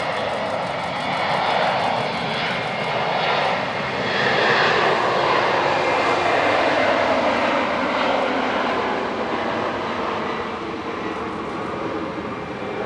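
Twin-engine jet airliner taking off, its engines running at takeoff power. The sound swells about four seconds in, then slides down in pitch as the jet passes and slowly eases off.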